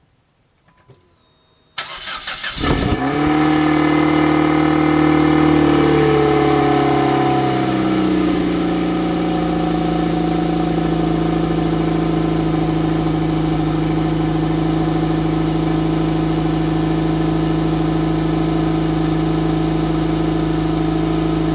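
Nissan Sentra engine started through its stock exhaust. After a faint click, the starter cranks for about a second and the engine catches. It idles high at first, then settles to a lower steady idle about eight seconds in.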